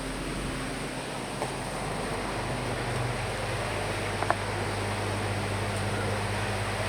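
Steady rain and wind against windows: a dense, even hiss over a low drone that swells slightly a couple of seconds in, with two short ticks like single drops striking.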